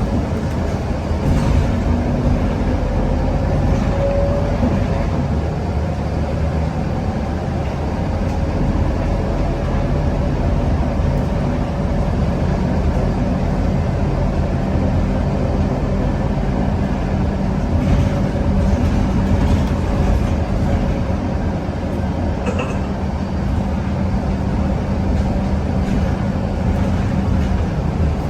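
Scania K230UB city bus's 9-litre five-cylinder diesel engine and driveline running steadily under way, heard from on board, with a faint whine that rises over the first few seconds.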